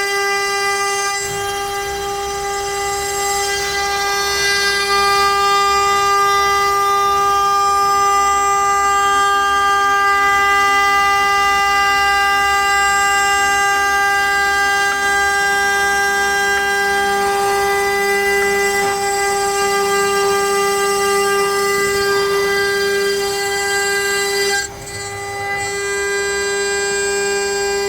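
CNC router spindle running with a steady high-pitched whine while its bit cuts letters into pine. The level dips briefly about 25 seconds in.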